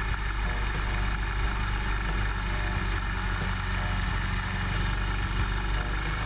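Motorcycle engine running steadily, heard from a GoPro mounted on the motorcycle.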